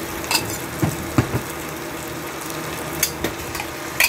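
Chopped chicken frying in hot melted butter in a stainless steel pot, a steady sizzle broken by several sharp clicks and knocks.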